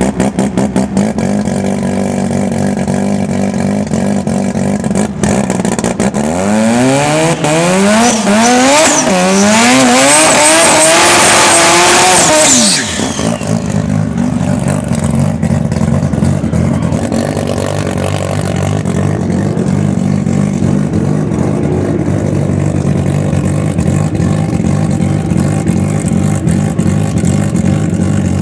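Turbocharged Mazda 13B rotary drag car engine running steadily. About six seconds in it launches and revs hard through several gear changes, each a climb in pitch and a drop. After about six seconds this cuts off sharply, leaving a steady engine sound.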